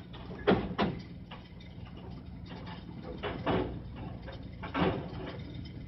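Lowrider truck's hydraulic suspension at work: sharp clanks and jolts over a steady low hum. There are two clanks close together about half a second in, two more past the middle and one near the end.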